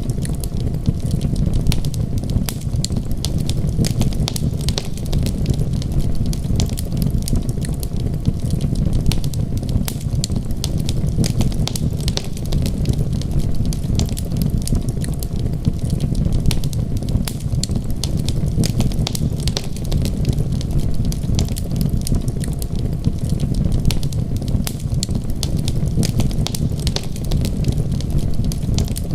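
Wood fire crackling steadily, with many small sharp pops and snaps, over a constant low rumbling hiss of rain.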